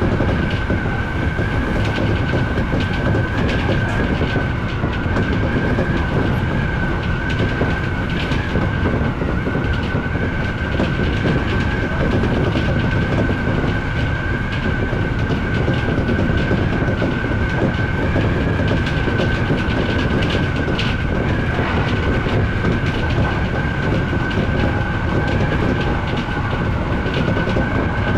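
Odakyu electric commuter train running at steady speed: a continuous rumble of wheels on rail, scattered clicks as the wheels cross rail joints, and a steady high-pitched whine.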